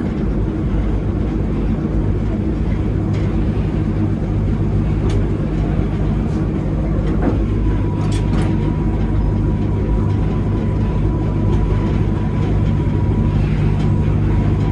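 Train on the move, hauled by a diesel locomotive: a steady low engine drone with carriage running noise and a few light clicks. A thin, steady high whine joins about eight seconds in.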